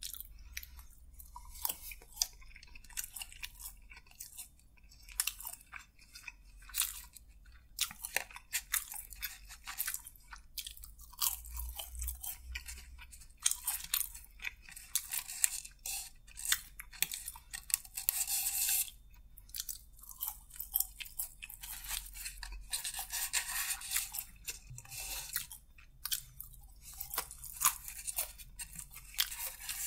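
Close-miked chewing and crunching of crispy fried chicken, crackling bites coming in irregular clusters with short pauses.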